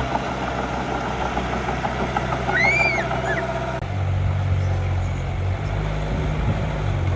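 Engine sound of a miniature RC construction machine (dump truck or bulldozer) running steadily at idle, its low hum changing to a different, stronger pitch about four seconds in.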